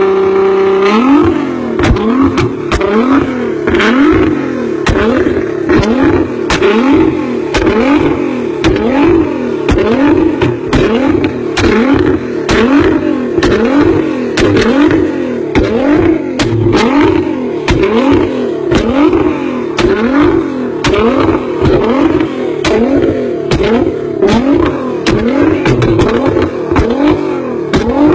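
Nissan GT-R's twin-turbo V6 revved over and over in quick throttle blips, the pitch rising and falling a little more than once a second, with sharp cracks between the blips.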